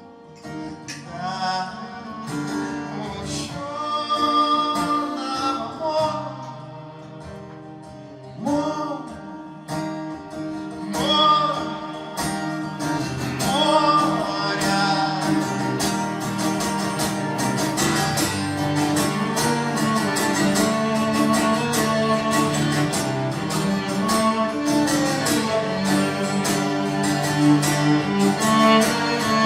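Live acoustic music: a cello and a guitar play, with a man's voice singing a wordless melody through the first half.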